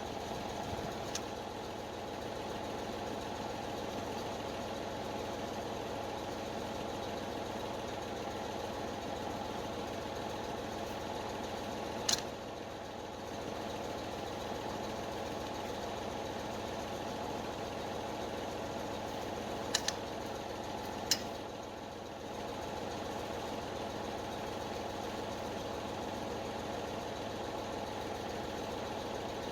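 A engine idling steadily, with a sharp clank about twelve seconds in and two more close together around twenty seconds in.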